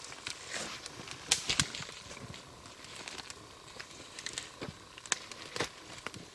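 Wood fire crackling, with irregular sharp pops over a soft hiss; the loudest snaps come about a second and a half in.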